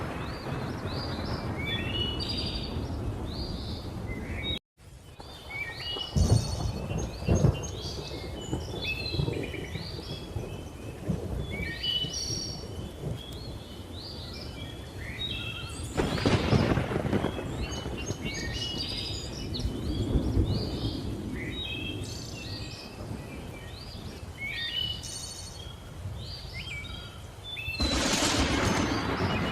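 Thunderstorm with many birds chirping and calling over it: rolls of thunder rumble several times, the loudest around a quarter and half way through and again near the end, over a steady bed of rain. The sound cuts out completely for a moment about five seconds in.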